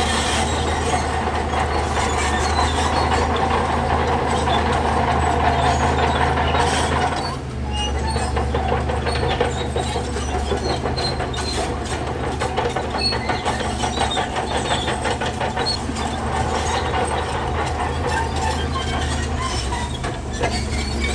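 Shantui DH17C3 crawler bulldozer running under work, its diesel engine droning steadily while its steel tracks clank and squeal. The clatter eases briefly about seven seconds in, then carries on.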